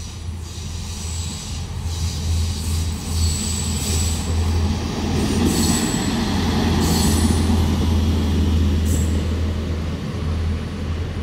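Passenger train passing close by. Its rumble builds to its loudest about six to eight seconds in, with a few sharp clicks from the wheels running over the track.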